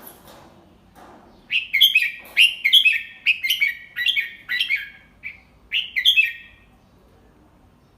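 Red-whiskered bulbul singing one phrase of about a dozen quick, bright whistled notes, beginning a second and a half in and stopping past the middle. A faint rustle comes just before it.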